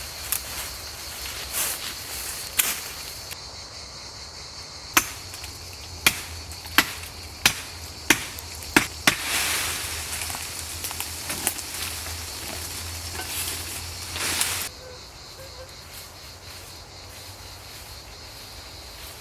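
Wood being chopped: a run of about six sharp blows a little under a second apart, followed by a rougher stretch of scraping or rustling that cuts off suddenly. Steady cricket chirring continues behind.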